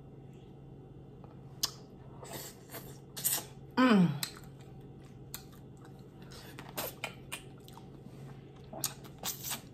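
Close-up eating sounds of boiled crawfish: wet mouth smacks and slurps in scattered clusters. The loudest is a slurp about four seconds in that falls in pitch.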